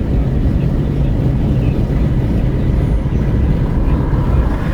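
Wind rushing in at an open car window, with road and tyre noise inside a Renault Kwid cruising on the highway: a loud, steady low rumble.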